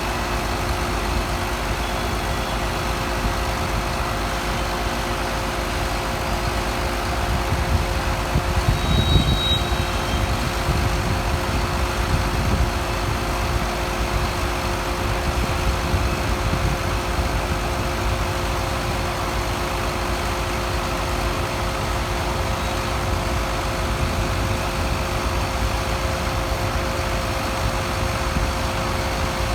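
An engine idling steadily with a constant hum, swelling slightly for a few seconds near the middle.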